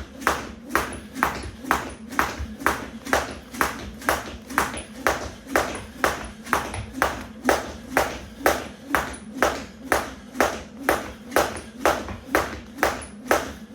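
Weighted 1 lb jump rope slapping the floor in a steady skipping rhythm, a sharp strike about two and a half times a second.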